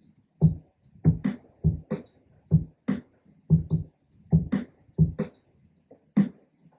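A programmed live-style drum kit beat playing back in a steady groove, with low kick hits and hi-hat hits above them. The kick has overdrive on it and its high end EQ'd out.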